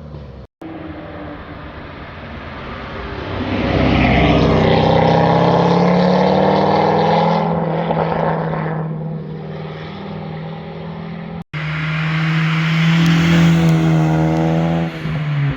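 Performance car engines accelerating past one after another, their exhaust note rising and falling in pitch. The loudest pass is about four seconds in. A second car holds a steady note and then climbs near the end. The sound cuts out briefly twice between passes.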